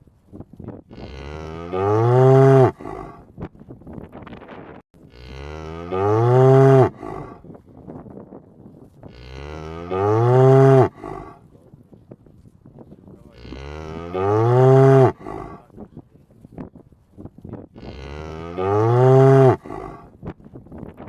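A cow mooing: five loud, near-identical moos, each rising then falling in pitch, repeating about every four seconds.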